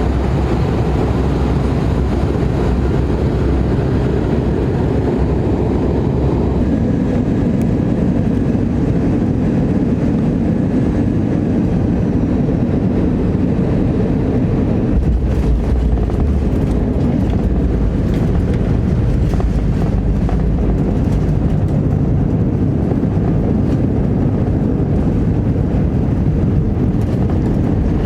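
Steady, loud cabin rumble of an Airbus A321 on final approach and landing, engines and rushing air together. About halfway through, a few brief knocks and a heavier low rumble set in as the wheels touch down and the airliner rolls along the runway.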